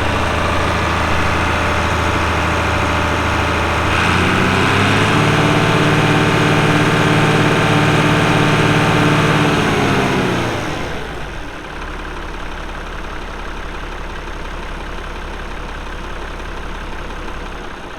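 International 686 tractor's D-312 six-cylinder diesel running. The revs rise about four seconds in and hold. Around ten seconds in they fall away, and the sound drops to a quieter, steady level.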